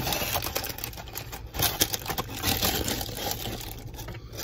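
Close-up chewing of a mouthful of chicken sandwich: rapid, irregular wet clicks and smacks of the mouth, over a steady low hum.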